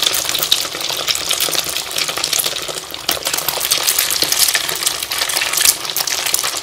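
Egg-dipped potato and chana dal shami kababs frying in hot oil: a steady, dense sizzle with many small crackles and pops.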